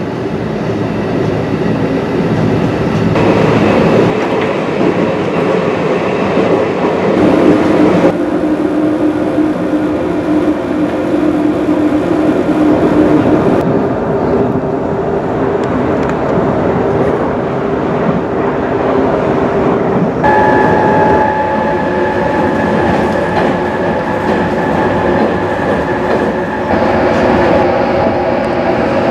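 JR 215 series double-deck electric train running at speed, heard from inside the car: continuous motor and wheel-on-rail noise with some rail-joint clatter. A steady whine shifts pitch several times, and a higher tone comes in about two-thirds of the way through.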